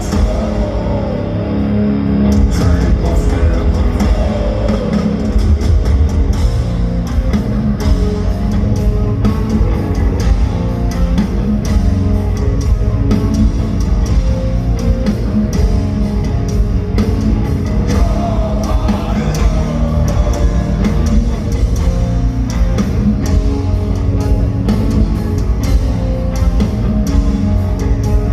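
Heavy metal band playing live: distorted electric guitar over bass and drum kit, loud and continuous. The drums fill in fully about two seconds in.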